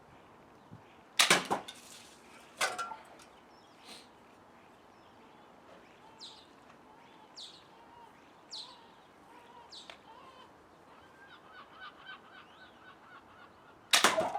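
Slingshot pistol shooting 9 mm steel ball bearings at water-weighted cans: a sharp crack about a second in, a second sharp hit about a second and a half later, and another loud crack near the end. In between, a bird gives four short falling whistles about a second apart.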